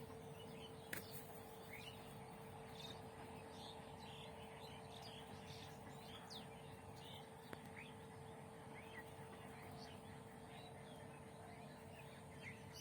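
Faint chatter of many small birds: short, quick chirps overlapping all the way through, over a steady low hum.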